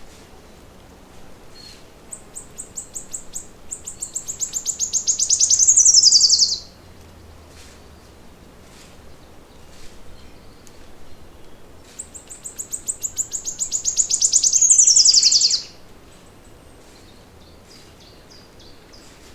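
A songbird singing twice, each song a fast, high trill of repeated notes that swells louder over about four seconds and ends in a sweep down in pitch. Faint scattered chirps from other birds in between.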